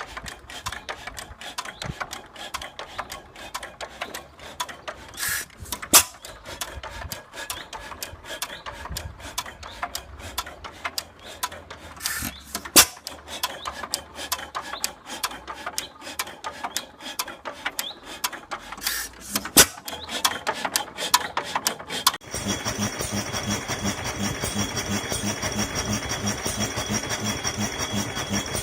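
Old Fairbanks Morse engine running with a busy mechanical clatter of ticks and clicks, and three louder sharp knocks spread a few seconds apart. About 22 seconds in the sound changes abruptly to another engine running steadily with an even beat of two to three pulses a second and a high steady whine over it.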